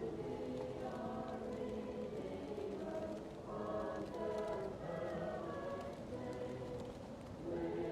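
A choir singing slow, held phrases, muffled as if heard from another room, with faint crackling of a wood fire.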